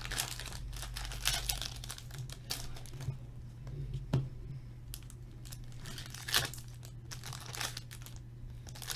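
Trading-card pack wrappers crinkling and tearing as packs are opened and handled by hand, in scattered short crackles with sharper ones about four and six seconds in, over a steady low hum.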